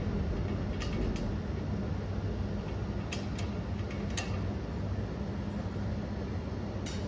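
Steady low mechanical hum with a handful of light, short clicks and taps of hand tools over it.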